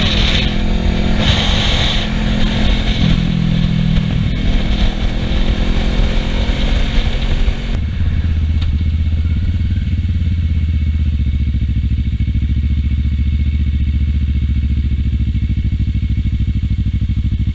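Kawasaki Ninja 650R parallel-twin motorcycle engine running under way, with wind rushing past the helmet camera. About eight seconds in, the wind drops away abruptly and a steady low engine hum is left.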